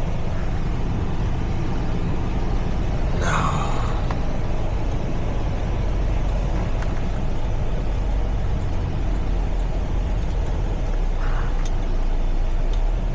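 Semi-truck's diesel engine running steadily at low speed, heard from inside the cab, with a short sharper sound about three seconds in and a fainter one near the end.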